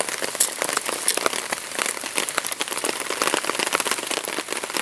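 Steady, dense, irregular patter of rain falling on the forest floor and leaves.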